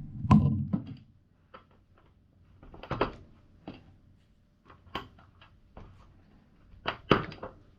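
LEGO bricks being handled and pressed together: a series of irregular plastic clicks and knocks, the loudest near the start and about seven seconds in.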